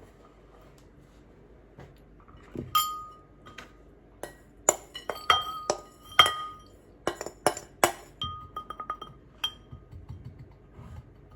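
Kitchen dishes clinking: a run of sharp clinks starting about two seconds in and lasting around seven seconds, several of them ringing briefly with a clear pitch.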